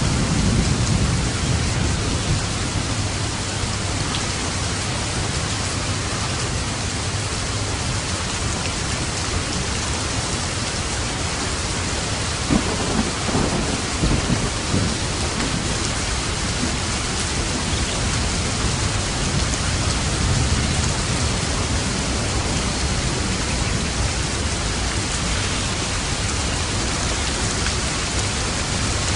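Steady heavy rain falling, with rolls of thunder rumbling near the start and again about halfway through, the second with a few sharp cracks.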